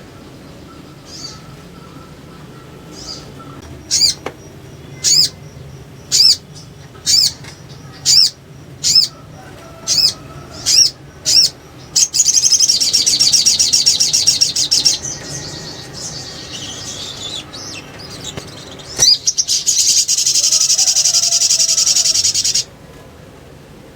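Little spiderhunter calling: a run of about eight sharp chirps, roughly one a second, then a fast, rattling chatter lasting about three seconds. A second chatter comes near the end and cuts off suddenly.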